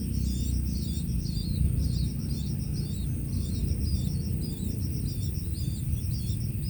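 Long-tailed shrike (cendet) singing a continuous run of quick, varied chirping phrases and repeated notes, over a low rumble and a steady high-pitched whine.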